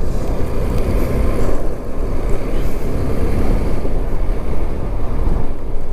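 Motorcycle running along the road, its engine rumble mixed with wind noise on the microphone.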